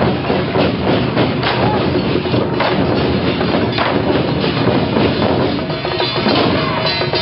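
Loud, dense percussion music from a temple procession, with many sharp irregular clacks and bangs and some ringing metallic tones near the end.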